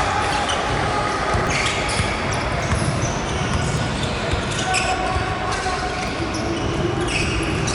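Basketball game sounds: a ball bouncing on the court amid general game noise, with scattered sharp strokes and indistinct voices in the background.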